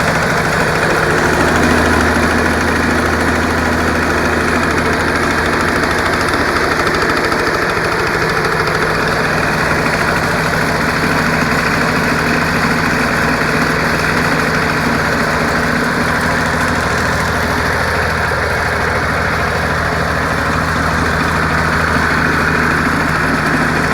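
Snapper's Wisconsin two-stroke engine running steadily at an even speed on a 32:1 fuel-oil mix.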